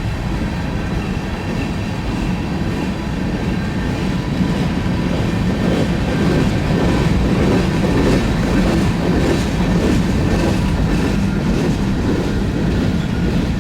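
Freight train rolling past at close range, a steady rumble of wheels on rail, with a run of clacks over rail joints in the middle.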